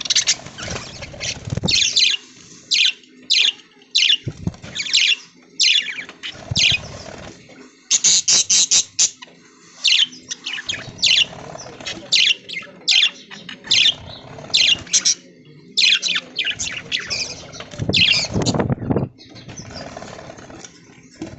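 A flock of budgerigars chirping and chattering: short, loud, high chirps following one another in quick bursts, with a louder, fuller call a few seconds before the end.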